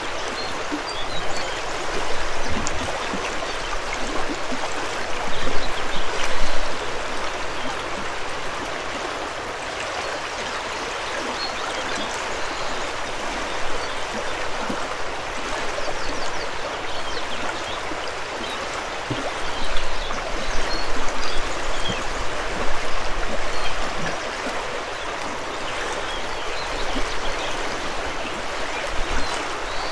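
River water rushing and gurgling steadily over rocks, with low gusts of wind swelling a few times and a few faint high bird chirps.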